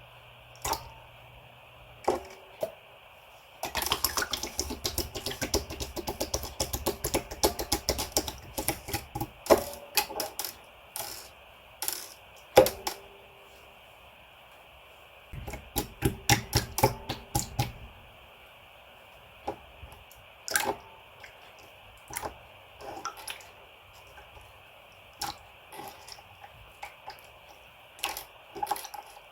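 Slime being squeezed and pressed by hand, making crackling air-bubble pops and clicks. Two dense runs of rapid clicking come at about 4 and 15 seconds in, with scattered single pops between them.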